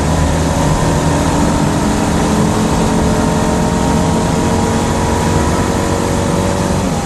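1980 Citroën Dyane 6's air-cooled 602 cc flat-twin engine buzzing steadily while driving, heard from inside the cabin together with road and wind noise.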